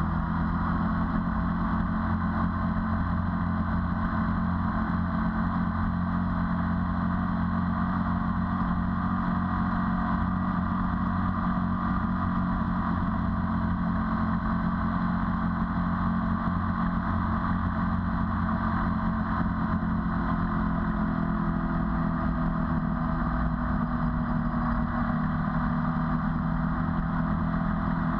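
Ducati 848's 90-degree V-twin engine running at a steady cruising speed, picked up by a camera mounted on the moving motorcycle, its note holding even throughout.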